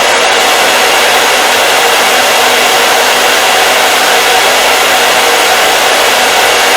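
Hair dryer running steadily: a loud, even rush of blown air with a faint motor hum underneath.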